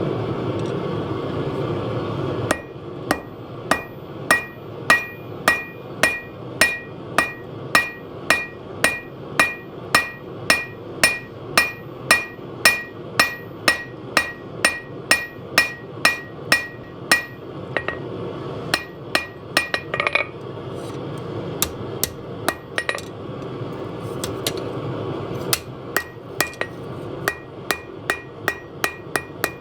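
Hand hammer striking steel on an anvil at about two and a half blows a second, each blow with a bright metallic ring; the blows stop briefly twice and then start again. A steady rushing noise is heard before the first blow and more faintly underneath.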